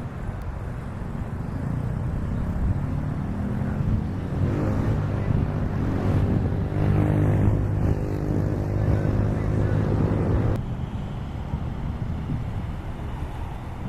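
A motor engine humming, building up about four seconds in, holding steady and stopping abruptly a few seconds before the end, over a steady rush of wind on the microphone.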